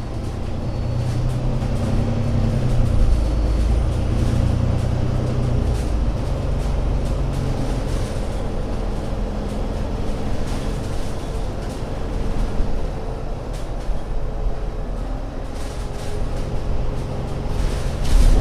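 ADL Enviro500 MMC Euro 6 double-deck bus engine running with a deep rumble. It is louder and working harder over the first several seconds, then eases to a steadier drone.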